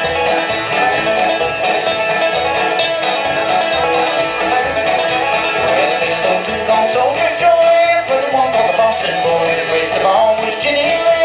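A bluegrass band playing live, an instrumental passage with banjo and guitar over a steady bass pulse, and a melody line that slides in pitch.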